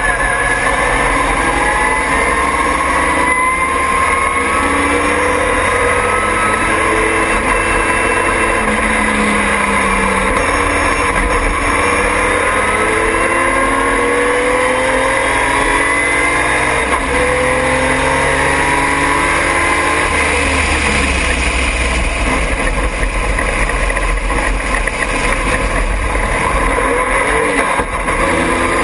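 Triumph TR6 race car's straight-six engine at full throttle, its pitch climbing repeatedly through the gears with breaks at the shifts, then falling about twenty seconds in as it slows.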